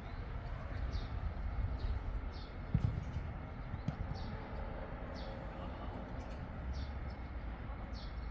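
Wind rumbling on the microphone outdoors, with a small bird chirping about once a second and two dull thumps about three and four seconds in.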